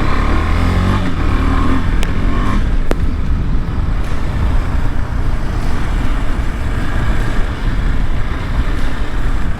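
KTM 390 Adventure's single-cylinder engine running as the motorcycle rides a muddy off-road trail, its pitch shifting over the first few seconds, then a steady rumble. Two sharp clicks come about two and three seconds in.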